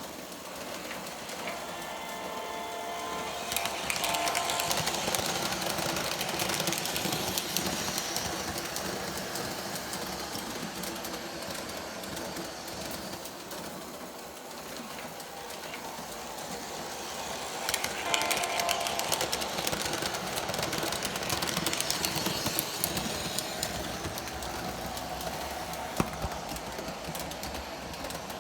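O-gauge model diesel train running on three-rail track, with a steady clatter of wheels on rails. The RS3 locomotive's onboard sound system plays diesel engine sound, with a horn sounding about two seconds in and again about eighteen seconds in, each time followed by a louder stretch.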